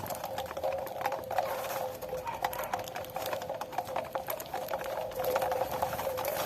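A flock of saffron finches pecking at cracked corn: many quick, irregular taps close together, with a steady hum behind.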